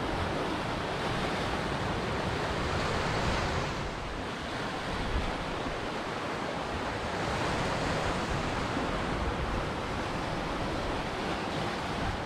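Ocean surf: waves washing onto a shore in a continuous hiss, swelling twice and easing between.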